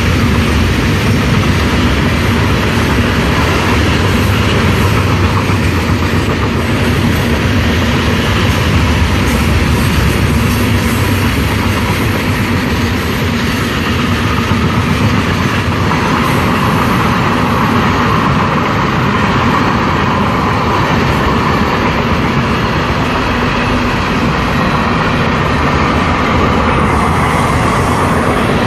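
Train rolling past about 30 feet away, its cars making a loud, steady rumble and rattle. A higher-pitched hum joins in about halfway through and fades near the end.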